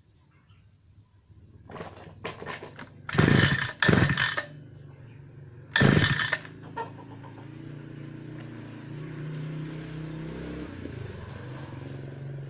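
Grass cutter's small two-stroke engine being pull-started: three short rasping pulls on the recoil starter, with a steady low hum following from about halfway through.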